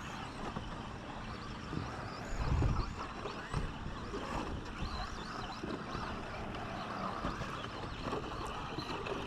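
RC 2WD short course trucks running on the race track: a steady blur of motor and tyre noise, with a dull low thump about two and a half seconds in.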